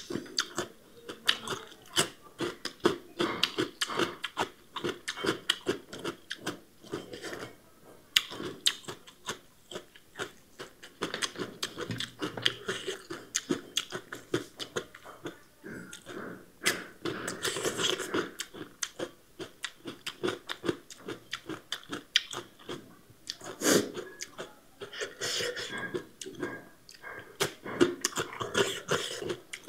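Close-miked crunching and wet chewing of raw cucumber and radish slices: a dense, irregular run of crisp crackles with mouth smacks.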